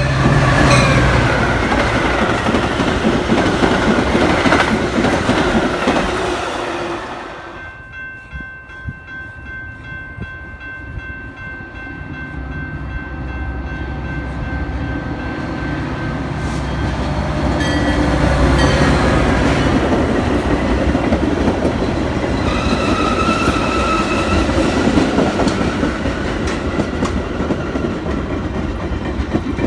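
A diesel-hauled Metra commuter train with bilevel coaches passes close by. After a break, a second Metra train approaches and rolls past, growing louder as it comes.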